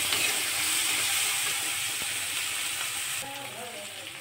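Onion, tomato and green chilli masala sizzling in hot mustard oil in a kadai as a spatula stirs it, with light scraping clicks. The sizzle drops off suddenly about three seconds in.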